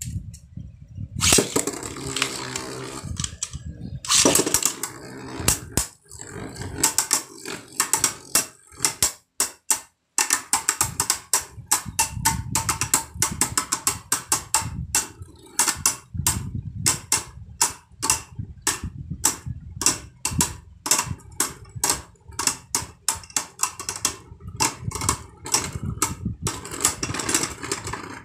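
Two Beyblade Burst spinning tops whirring and clashing in a plastic stadium. From about a second in there are rapid, repeated sharp clacks as the tops strike each other and the stadium.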